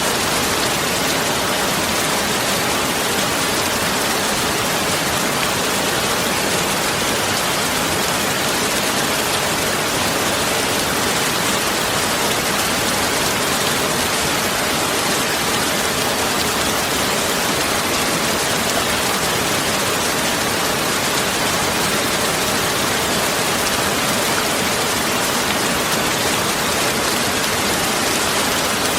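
Steady, even hiss spread across all pitches, with no separate drops, knocks or changes.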